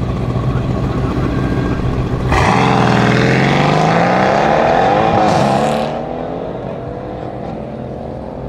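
Mercedes-AMG C63 S Estate's twin-turbo V8 idling at the start line, then launching hard a little over two seconds in. The revs climb and drop back at the gear changes, and the sound fades as the car pulls away down the strip alongside a second car.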